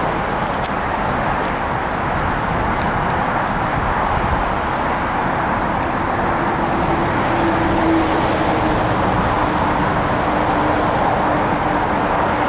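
InterCity 125 high-speed train approaching at speed: a steady rushing rumble that swells slightly. A faint steady hum comes in about halfway through.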